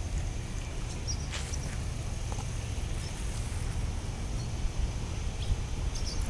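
Small birds giving short, high chirps here and there, over a steady low rumble of wind on the microphone.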